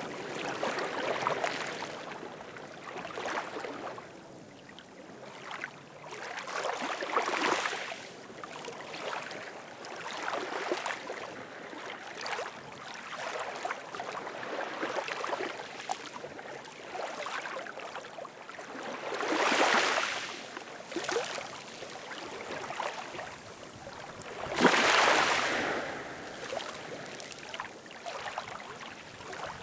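Ocean waves washing in and drawing back in slow swells of hiss, with two louder breakers about two-thirds of the way in and near the end.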